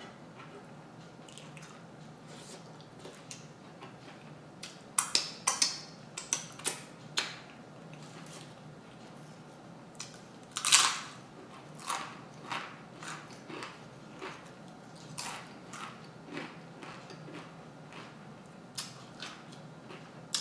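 Close biting and chewing of a grinder salad sandwich (bread, lettuce, onion and peppers): irregular crisp crunches, several in quick succession about five seconds in and a longer crunch near eleven seconds.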